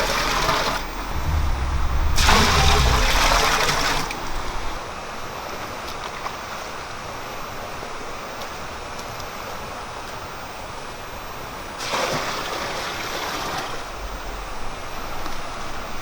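Water gushing and splashing in three short rushes, over a steady background rush of running water.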